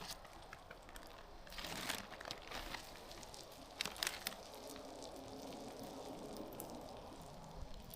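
Faint crinkling and rustling of something being handled, with a few light clicks about two and four seconds in.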